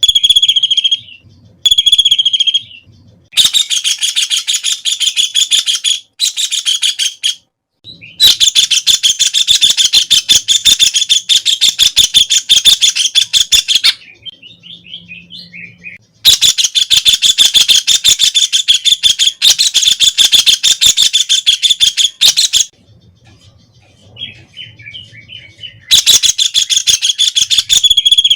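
White-throated kingfisher calling: loud, high rattling trills of rapidly repeated notes. Two short calls come first, then long runs of several seconds each, with softer chatter in the gaps.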